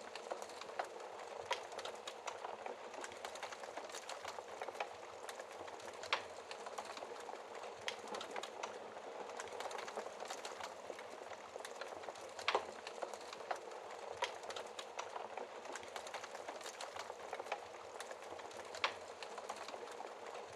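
Wood fire burning in a fireplace: a steady hiss of flames with irregular sharp crackles and pops from the logs, a few louder snaps among them.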